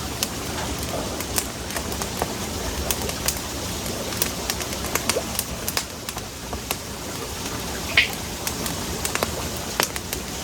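Wood campfire crackling, with sharp pops at irregular intervals over a steady hiss of burning, and one louder hissing pop about eight seconds in.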